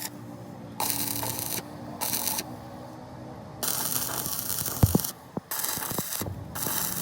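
Compressed-air tool hissing in five short bursts, each switched sharply on and off, with a few sharp metal knocks in the second half.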